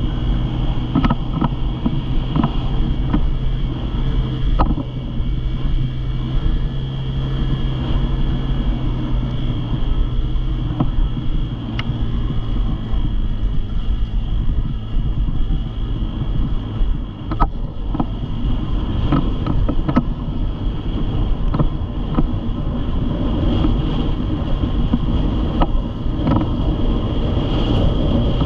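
Dirt bike engine running steadily while being ridden, its hum holding even for several seconds and then changing pitch as the throttle varies, with scattered knocks and some wind on the microphone.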